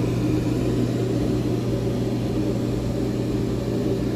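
Steady mechanical hum of machinery running in a motor yacht's engine room, one even low tone with overtones that does not change.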